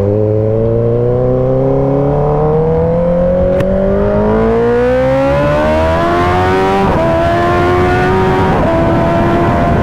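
Kawasaki ZX-10R's inline-four engine accelerating hard but not at full throttle, the revs climbing steadily for about seven seconds. Near the end the pitch drops at an upshift and starts climbing again.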